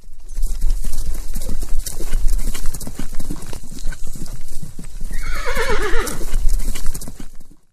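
Rapid hoofbeats of a horse on the move, a dense run of knocks and thuds. About five seconds in, a horse whinnies once for about a second, a wavering call that falls in pitch.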